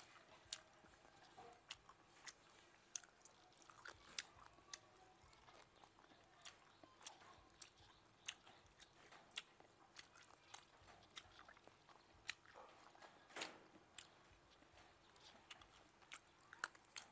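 Close-miked chewing and biting of grilled frog meat: wet mouth sounds with irregular sharp, crunchy clicks, roughly one or two a second.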